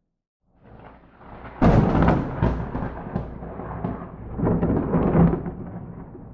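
Thunder from a close lightning strike. Out of a brief silence a rumble builds, then a sharp crack about one and a half seconds in, followed by crackling and rolling rumble with a second loud surge near five seconds, fading near the end.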